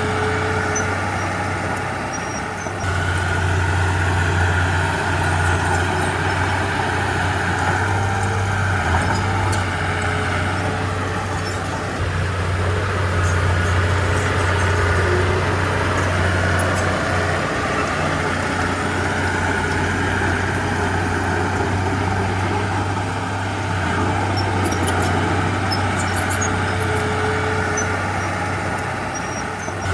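Diesel engine of a Komatsu D31P bulldozer running continuously under load. Its note dips and swells several times as it works.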